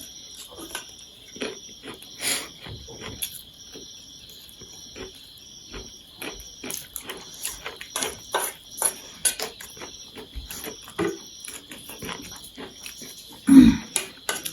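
Close-up eating sounds of someone chewing and slurping chow mein noodles: irregular wet mouth clicks and smacks, with a louder slurp or gulp near the end. A faint steady high-pitched whine runs underneath.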